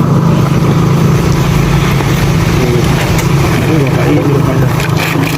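A vehicle engine idling steadily, a constant low drone, with people talking faintly in the background.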